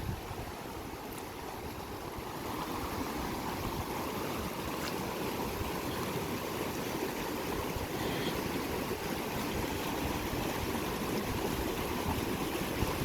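Steady rush of a monsoon-swollen mountain river flowing over its bed.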